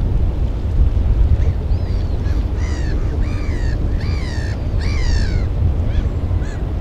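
Several harsh bird calls, each a short downward-arching cry, with three louder ones in the middle. Under them runs a steady low rumble.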